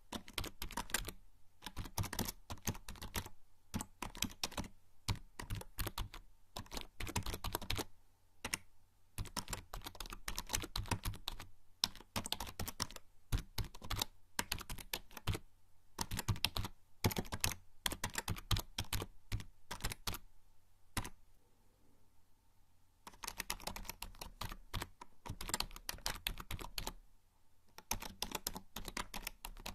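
Typing on a membrane computer keyboard: quick runs of soft key presses, broken by short pauses, the longest about two-thirds of the way through.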